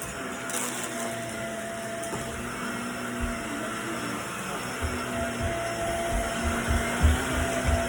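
Vacuum cleaner running steadily, its motor hum holding one pitch, with irregular low bumps in the second half.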